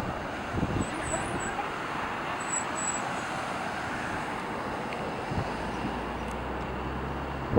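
Steady background road traffic noise. A low engine hum joins about five and a half seconds in.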